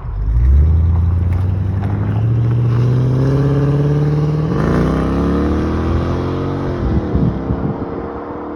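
Mercedes ML55 AMG's 5.4-litre V8 accelerating on the road, its pitch climbing steadily for about four seconds, then dropping away around five to seven seconds in before running on steadily.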